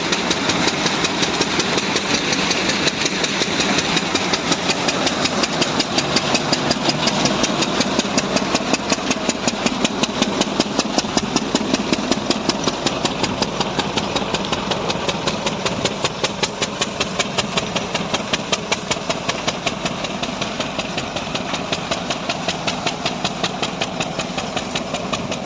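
10 hp Lister-type single-cylinder diesel engine running steadily, its firing strokes making a rapid, even knocking beat over the noise of the machine it drives; it gets a little quieter about two-thirds of the way through.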